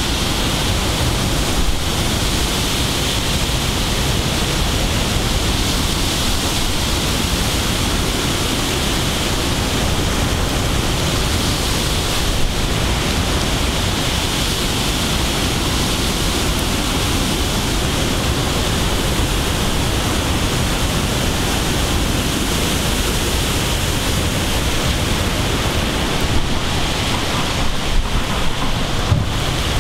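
Heavy thunderstorm downpour: torrential rain falling in a steady, unbroken hiss.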